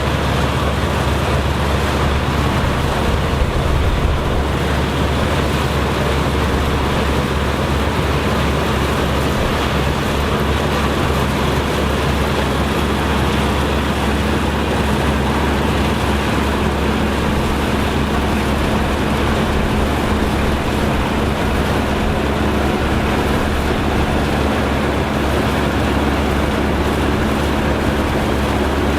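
Steady engine and machinery drone of running farm harvesting equipment, with a constant low hum and no change in pace.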